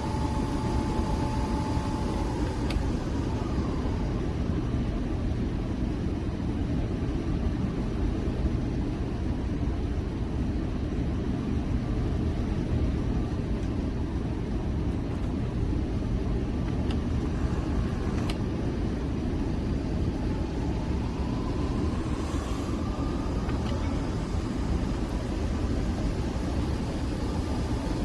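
Nespresso Vertuo Next coffee machine running through a brew cycle with a steady whirring hum. Its motor pitch falls away a few seconds in and climbs again near the end.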